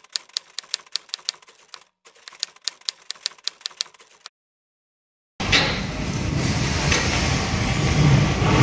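Typewriter key-click sound effect, two quick runs of about five or six clicks a second with a short break between them. After a second of silence, a steady rushing background noise comes in and stays louder than the clicks.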